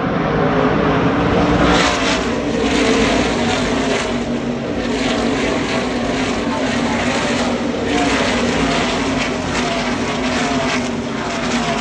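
NASCAR Craftsman Truck Series race trucks' V8 engines at full throttle, passing one after another in a continuous loud stream, each pass falling in pitch as it goes by.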